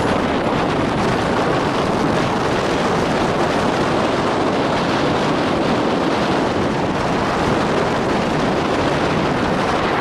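Steady rushing noise of a moving train ride, with wind buffeting the microphone; no distinct wheel clicks stand out.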